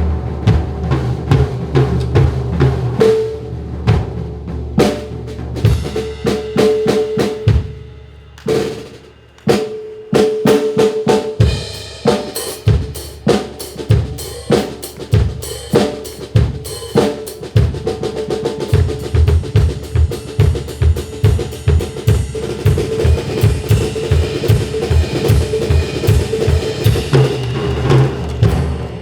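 Drum kit played in drum sanjo style: rapid snare and bass-drum strokes and rolls over a steady held note. The drumming eases briefly about eight seconds in, then resumes in dense, fast strokes.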